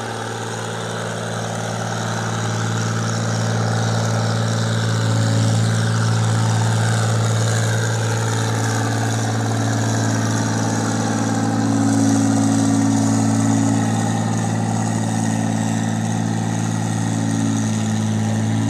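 John Deere 4020 tractor's six-cylinder gasoline engine running steadily, getting louder over the first few seconds and then holding a constant note.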